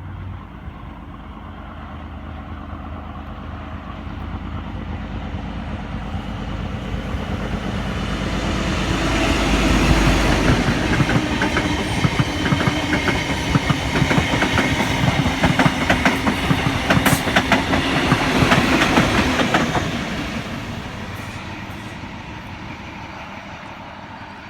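XPT diesel passenger train running through the station: the low rumble of the leading power car builds to its loudest about ten seconds in, then the wheels clatter rhythmically over the rail joints as the carriages and the trailing power car go by, and the sound fades away near the end.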